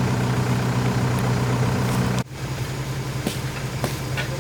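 Excavator diesel engine running steadily. About halfway the sound cuts off sharply and comes back quieter, with a few faint clicks.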